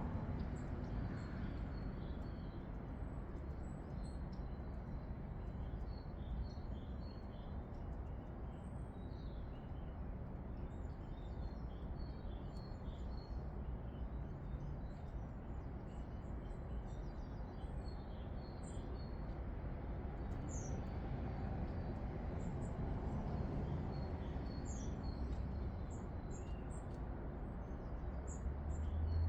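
Small garden birds chirping and calling, many short high calls scattered throughout, over a steady low outdoor rumble.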